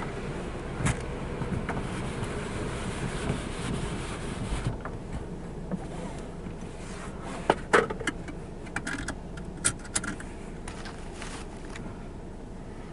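A car engine idling, heard from inside the cabin as a steady low rumble. A few sharp clicks and knocks come in the second half.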